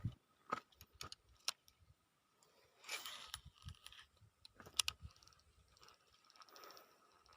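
Scattered small clicks and knocks, with a short rustle about three seconds in and a faint fast high ticking near the end.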